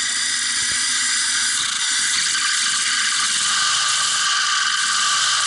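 Zhiguli engine running, heard as a steady, loud mechanical clatter and hiss.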